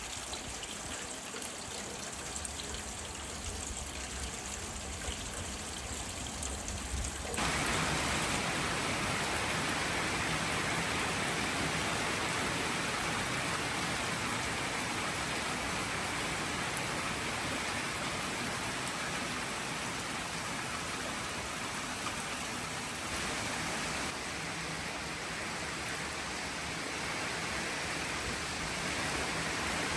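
Steady wash of rain and running water with no distinct events. It steps up abruptly to a louder, hissier sound about seven seconds in.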